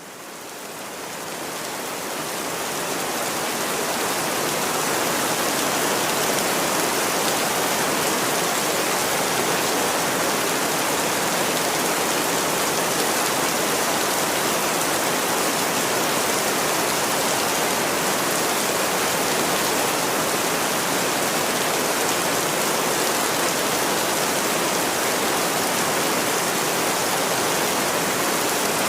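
Steady heavy rain, a dense even hiss. It fades in from silence over the first few seconds, then holds at one level.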